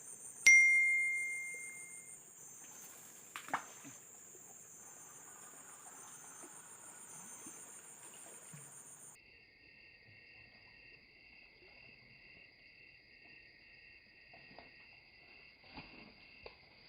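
Insects, crickets among them, chirring steadily in a pulsing high-pitched chorus; about nine seconds in it switches abruptly to a lower-pitched chorus. About half a second in, a single sharp ding rings out and fades over a second or so; it is the loudest sound.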